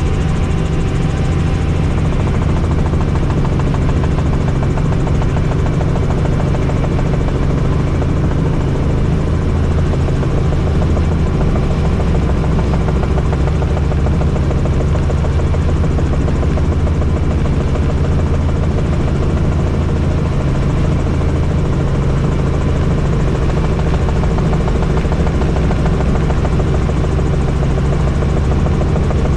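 Helicopter in flight, heard from inside the cabin: steady rotor and turbine noise, loud and even.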